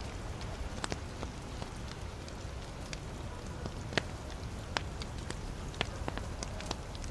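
Wood fire in a fireplace crackling: irregular sharp pops and snaps over a steady low rush of flame, with one louder pop about four seconds in.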